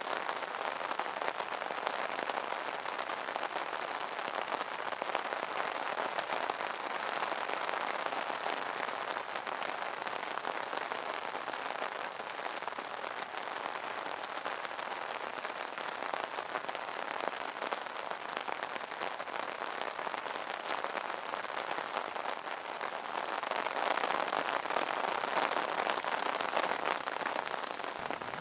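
Rain falling steadily on an umbrella, a dense patter of drops that grows a little louder near the end.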